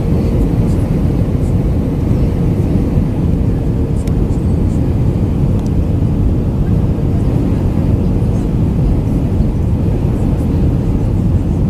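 Steady cabin noise inside an Airbus A319-112: a low, even rumble of the CFM56 engines and airflow, with a faint steady hum and no change in level.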